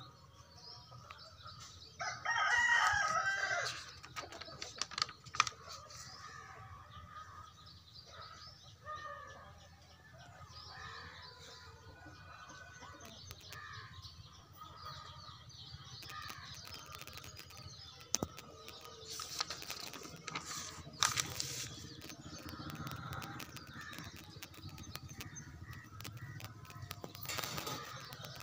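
Birds calling: one loud, drawn-out call about two seconds in lasting over a second, then softer scattered calls. Now and then there are sharp clicks and rustles from the paper booklet's pages being handled.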